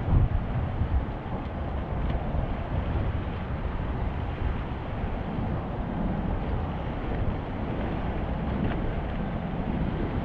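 Wind buffeting the microphone outdoors by the sea: a steady low rumbling noise, with a few stronger gusts in the first second.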